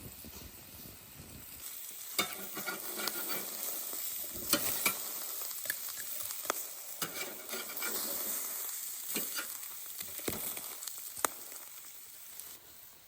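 Food frying in a hot pan over a campfire: a steady sizzle with scattered sharp pops and crackles. It grows louder about two seconds in and eases off near the end.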